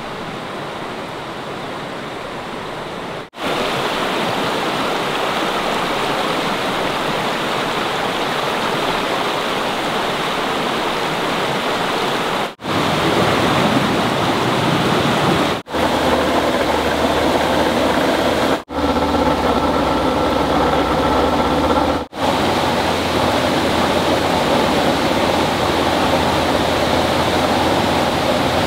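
Water rushing steadily, a loud even wash, interrupted by several brief dropouts where shots change. About halfway through, a low steady hum with a few steady higher tones joins it.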